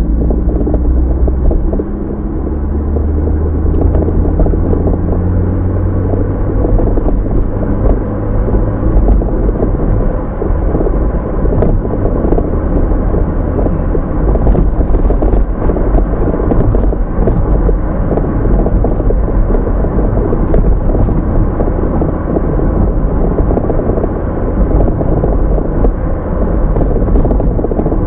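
A car on the move, heard from inside the cabin through the dashcam's microphone: a steady low rumble of tyres on the road and engine noise.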